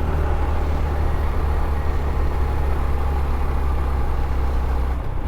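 Honda CT125's single-cylinder engine running steadily under way, a constant low drone with riding noise over it. The drone dips briefly near the end.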